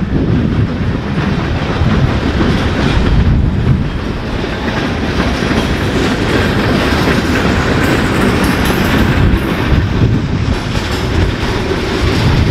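Freight train hauled by ex-Canadian National steam locomotive 89 rolling past on the rails, a loud, steady rumble of wheels on track.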